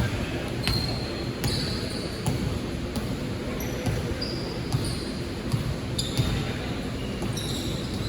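A basketball being dribbled on a court floor, bouncing about once a second, with short high squeaks mixed in.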